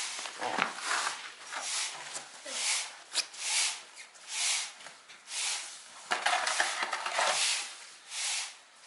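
Broom sweeping: regular swishing strokes, about one a second, with a longer scraping stretch a little past the middle.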